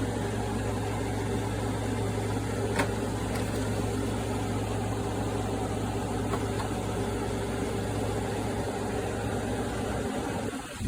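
Window air conditioner running: a steady hum with fan noise.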